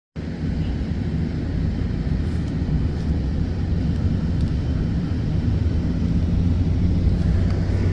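Snow-plow truck's engine running steadily, a continuous low drone.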